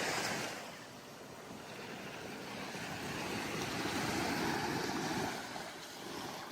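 Ocean surf washing up onto the beach, building over a few seconds and easing off near the end, with some wind on the microphone.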